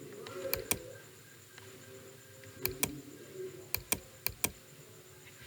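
Sharp clicks in four quick pairs, double clicks spread over a few seconds, over a faint steady tone.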